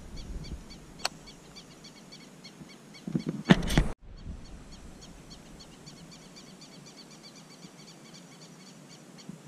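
Small birds giving a rapid, steady series of high chirps. There is a sharp click about a second in and a brief loud bump and rustle, as of handling close to the microphone, a little after three seconds.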